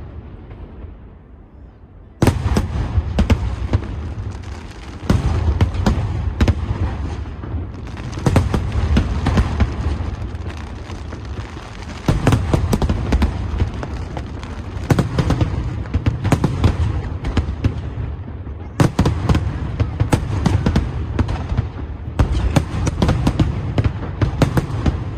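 Large fireworks display: shells bursting in dense, rapid volleys full of bangs and crackling. They start suddenly about two seconds in and come in repeated waves.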